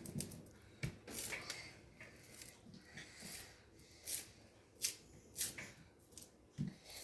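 Slime being worked by hand, giving a series of short, sticky crackles and squelches about once a second.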